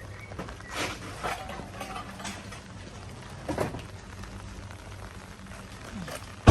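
Rain falling, a steady hiss with a few scattered louder drips and taps.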